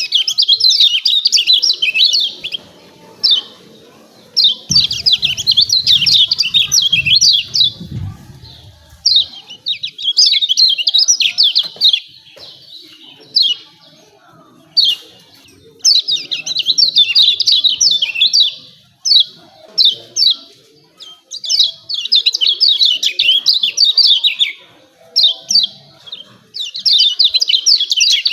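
Kecial kuning white-eye giving its 'ciak ciak' chatter: bursts of quick, high, down-slurred notes, each a second or two long, repeated again and again with short pauses between them.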